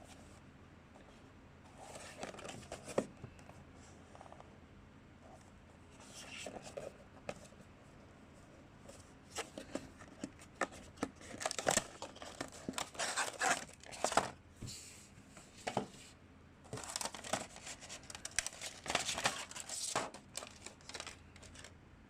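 Packaging being handled and torn open: irregular bursts of crinkling, rustling and tearing with sharp clicks, in several spells with short pauses between them.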